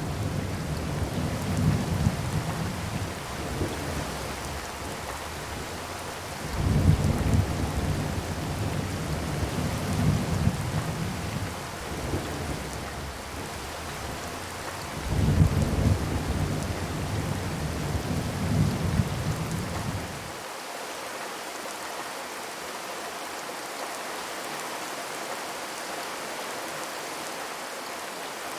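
Steady rain on a zinc (corrugated metal) roof, an even hiss of drops on the sheet metal. Deep low rumbles swell three times under it and stop abruptly about two-thirds of the way in, leaving only the rain.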